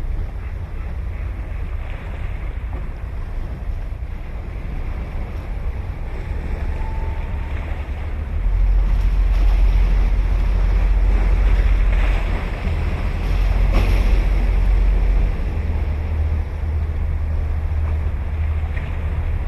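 Ocean waves washing on the shore, with wind rumbling on the microphone. The wind rumble grows heavier for several seconds in the middle.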